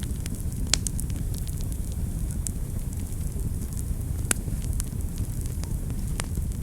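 Wood fire burning in a fireplace: a steady low rumble of flames with scattered crackles and sharp pops, the loudest a little under a second in and just past four seconds in.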